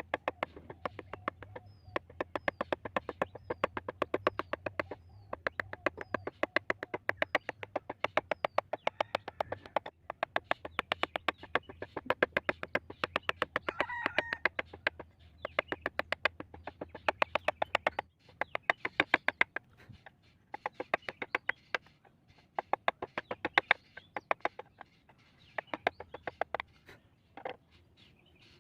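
Wooden mallet tapping a carving chisel into wood in quick, even runs of about six or seven taps a second, broken by short pauses.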